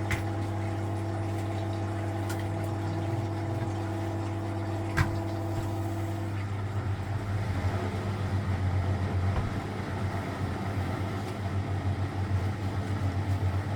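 Vintage Frigidaire Super Deluxe Automatic 50 front-loading washing machine running mid-cycle with a steady motor hum. There is a single click about five seconds in. About halfway through, a steady tone stops and the hum turns uneven and pulsing.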